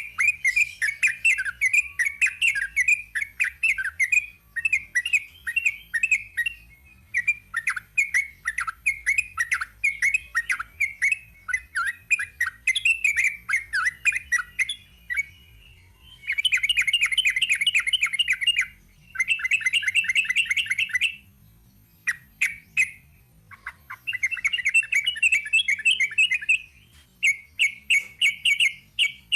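Yellow-vented bulbul (trucuk) singing a long rapid-fire song: strings of quick chattering notes, broken in the second half by several dense rattling bursts a second or two long.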